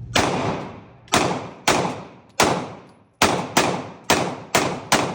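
Gunshots from semi-automatic firearm fire, about nine shots in an uneven string, some close together and some with pauses of about half a second, each trailing off in echo.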